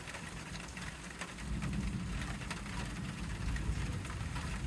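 Distant thunder rumbling low, swelling about a second and a half in and rolling on steadily.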